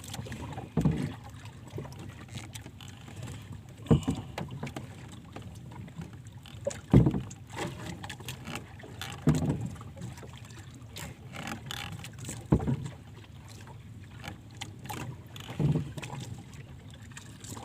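Water sloshing around a small boat, with a dull knock or splash every few seconds, about six in all.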